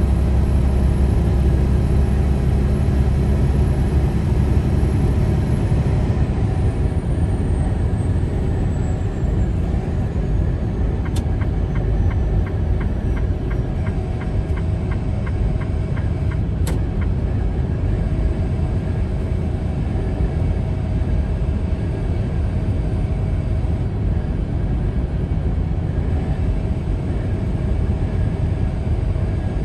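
Steady low rumble of a moving vehicle's road and wind noise, with two sharp clicks a few seconds apart near the middle.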